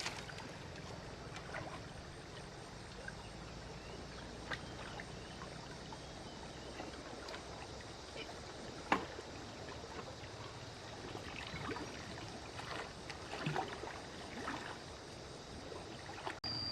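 Water splashing and lapping, with scattered light knocks; the sharpest knock comes about nine seconds in.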